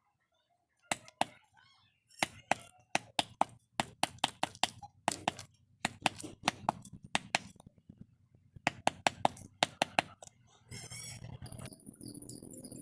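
A hammer striking a steel saw blade in quick, sharp blows. The blows come in runs of several strikes, with short pauses between the runs.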